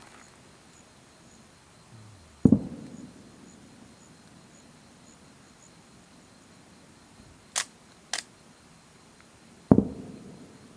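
Aerial firework shells bursting: two deep booms about seven seconds apart, each trailing off in a rumble, with two sharp cracks shortly before the second boom.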